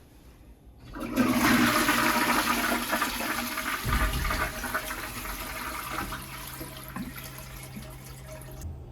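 Water rushing in suddenly, loud at first and gradually dying away, then cutting off just before the end.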